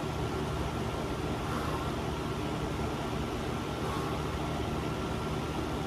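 Electric fan running with a steady whirring hum and airflow noise.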